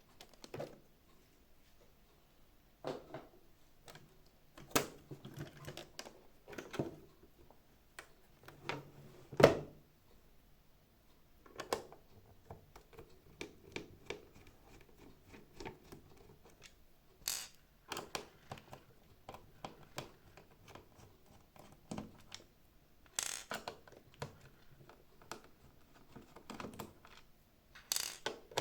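Irregular clicks, taps and knocks from the plastic casing and parts of a robot vacuum being handled and taken apart, with the loudest knock about nine and a half seconds in.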